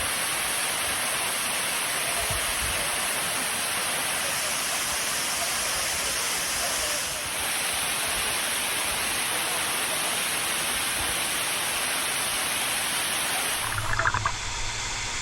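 Waterfall rushing in a steady, loud wash of noise. Near the end the sound changes abruptly, the hiss thinning and a low hum coming in.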